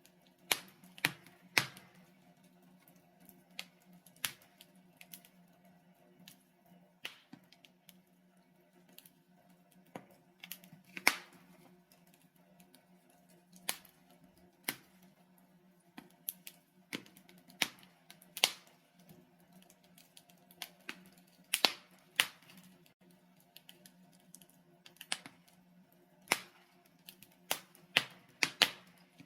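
Wood fire burning in a fireplace, with irregular sharp crackles and pops from the logs over a faint steady low hum.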